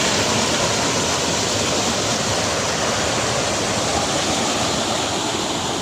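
Heavy rain pouring down in a steady, loud rush of water.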